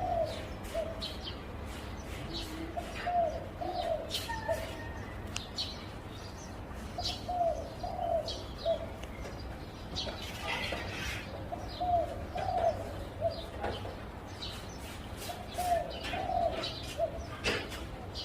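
Zebra dove cooing: a short phrase of a few soft notes, repeated about every four seconds, with other small birds chirping faintly above it.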